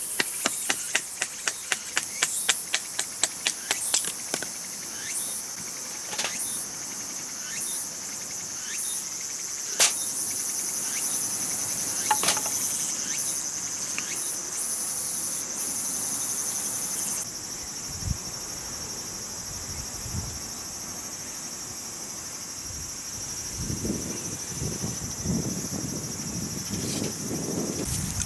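Insects trilling steadily at a high pitch, the trill changing and thinning about two thirds of the way through. Over it, a quick run of sharp taps in the first few seconds, then scattered single knocks.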